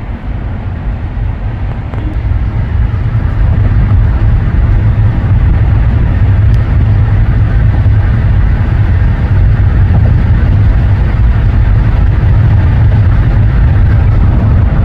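Steady road and wind noise of a car driving on the freeway: a low rumble that grows louder about two to four seconds in, then holds level.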